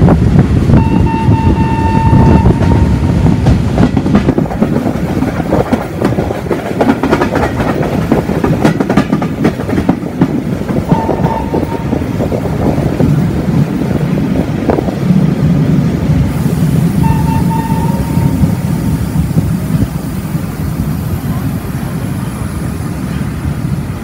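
Historic train hauled by steam locomotive 625.177, heard from an open carriage window: the steady rumble and clatter of the Centoporte carriages' wheels on the track. A few short high tones sound over it, about a second in, around the middle and again later.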